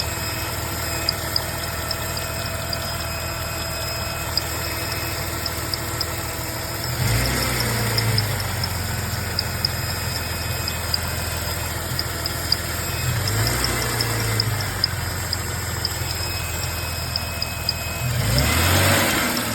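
2004 Jeep Grand Cherokee WJ's 4.0 straight-six engine running at idle. Three times it briefly gets louder, with a higher whining, squeaking sound mixed in; this is the occasional squeak or whine that the owner is trying to trace.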